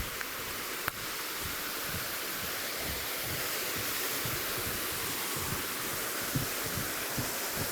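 Steady rushing of a river, with irregular low thumps on the microphone and one sharp click about a second in.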